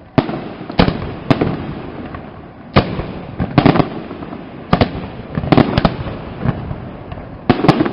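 Fireworks display: firework shells bursting in an irregular run of about a dozen sharp bangs, some in quick pairs, with a rumbling echo between them.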